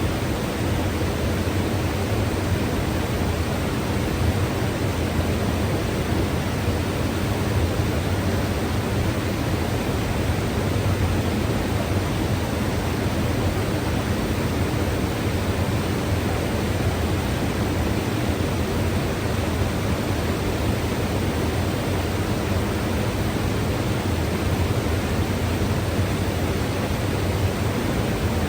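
Mountain river rushing: a steady, unbroken roar of flowing water, fullest in the low range.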